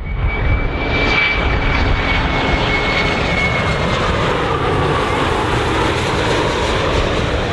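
Jet airliner's engines running loud, a steady rushing roar that starts suddenly, with a high whine that falls slightly in pitch and fades about four seconds in.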